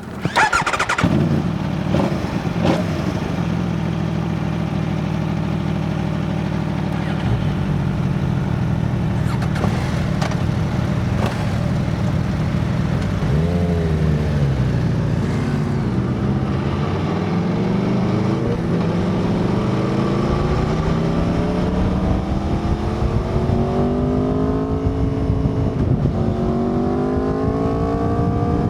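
Aprilia Tuono V4's V4 engine starting with a quick rev flare, then idling steadily. About halfway through it gives one throttle blip, then pulls away with the engine pitch climbing steadily, broken by a short dip for a gear change near the end.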